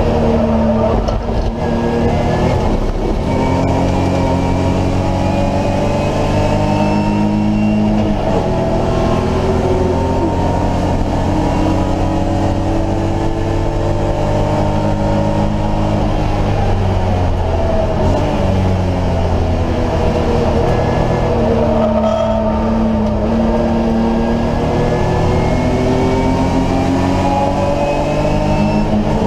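BMW E30 race car's engine heard from inside the cockpit at racing speed. The revs climb and fall again and again through the gears and into the corners.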